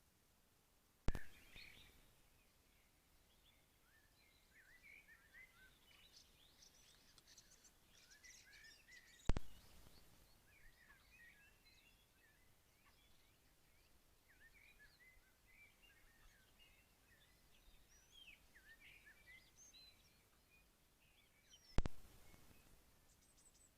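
Faint songbird chirping and twittering, many short notes overlapping, broken by three sharp clicks about one, nine and twenty-two seconds in.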